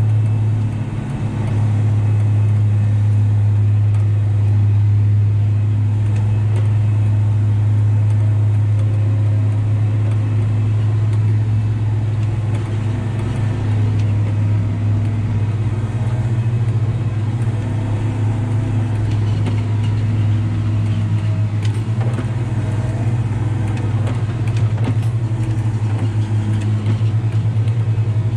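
Valtra T234 Direct tractor's six-cylinder diesel engine running at a steady speed, a continuous low drone.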